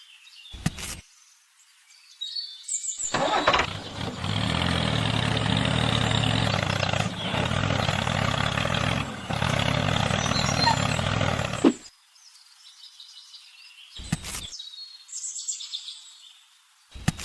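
A vehicle engine starts with a stuttering build-up, runs steadily for about eight seconds, then cuts off suddenly. Short sharp knocks come shortly before and a few seconds after it.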